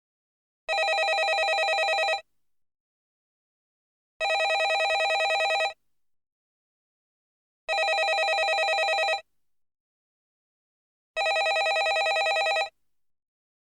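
Landline telephone ringing: four rings of about a second and a half each, about three and a half seconds apart, with silence between.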